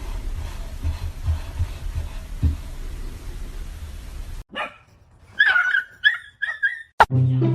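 A dog giving about four short, high yips or whines in quick succession in the second half, after a stretch of low rumbling noise with soft thumps. Music starts just at the end.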